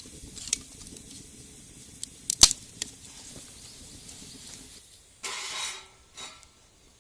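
Cooking at a frying pan over a wood fire: a faint background that fades out a little before five seconds, with several sharp clicks and knocks, the loudest about two and a half seconds in. A brief rustling scrape comes just after five seconds.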